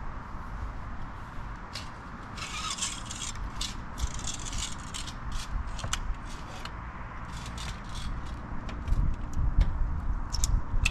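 Rattling and scraping handling noises with scattered clicks over a steady low rumble, busiest a couple of seconds in, with heavier low thumps near the end.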